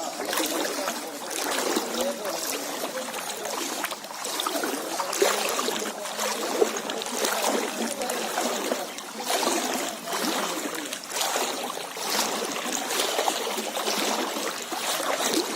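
Floodwater flowing in a steady rush that swells and eases.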